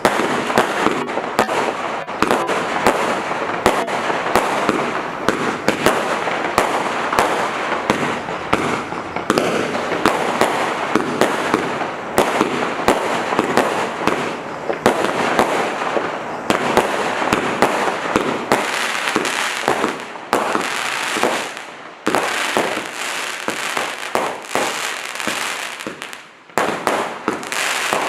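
Black Cat 'Fast and Furious' 210-shot compound firework cake firing: a rapid, unbroken run of shots and bursts over a constant crackling hiss, with two brief lulls, one about twenty seconds in and one near the end.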